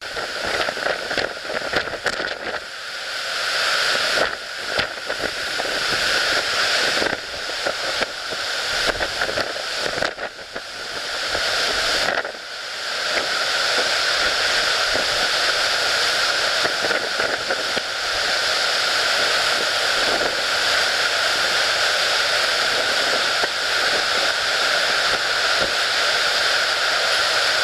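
Typhoon wind and rain, gusting unevenly at first and then a steady loud rush from about twelve seconds in, with a constant howl from the wind-loaded hotel windows.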